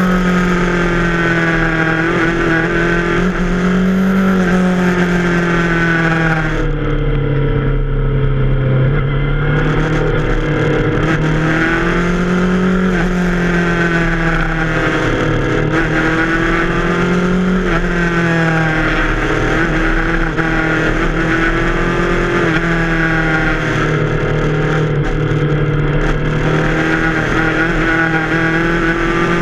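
Yamaha FZ6R's inline-four engine, heard from the rider's seat, its pitch rising and falling again and again as the throttle is rolled on and off. About seven seconds in the engine note drops lower and softer for a couple of seconds, as if off the throttle, before climbing again.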